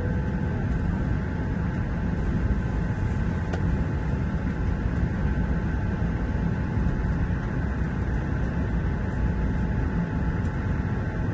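Steady cabin noise inside an Airbus A380 on the ground after landing: an even low rumble with a few faint steady hums above it.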